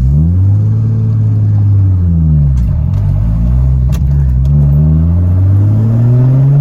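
Toyota Supra Mk4's turbocharged inline-six heard from inside the cabin as the car is driven. The revs rise and fall at the start and again about two seconds in, then climb steadily near the end as the car accelerates.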